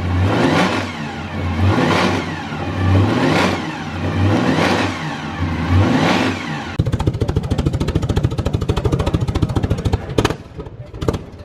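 A high-revving competition engine is blipped hard five times, about once every one and a half seconds, each rev rising and falling. It then settles into a fast, even rattle, with a few sharp exhaust bangs near the end.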